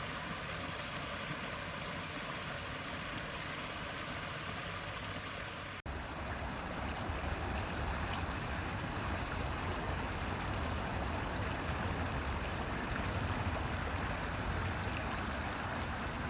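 Running water rushing steadily. It breaks off for an instant about six seconds in and comes back fuller and deeper.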